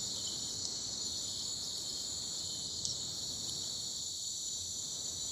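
Steady, high-pitched chorus of insects, such as crickets, trilling without pause, with a couple of faint ticks about half a second and three seconds in.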